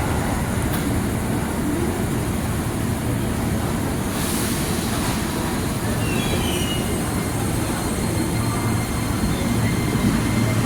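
A train running on rails, a steady rumble of wheels and cars going by.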